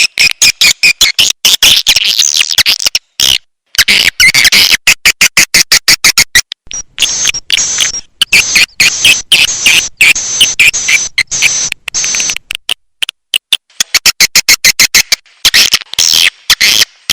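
Recorded swiftlet calls: dense, rapid chattering chirps in quick pulses, with sudden cut-outs between phrases. This is a lure call played to draw swiftlets into a nesting house.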